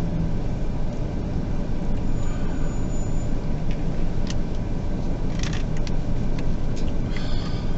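Steady low rumble of a vehicle heard from inside, with a few brief clicks and a short rustle about five seconds in.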